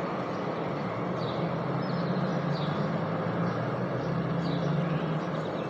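Steady outdoor background drone with a low hum, and a few short, high, downward-sliding bird chirps spread across it.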